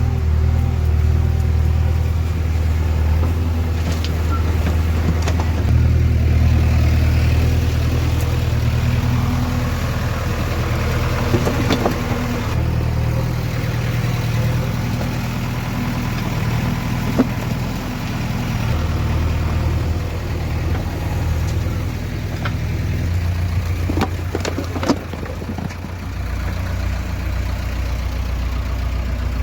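Heavy diesel engine of a tractor or backhoe running steadily under load. Its note shifts lower and higher a few times. There are a few sharp knocks near the end.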